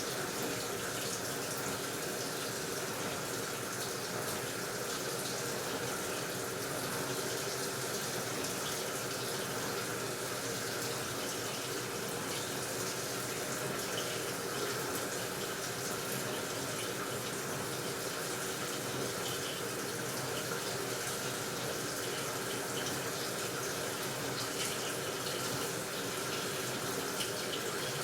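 AQUA washing machine filling: water runs steadily into the tub with an even, unbroken rush.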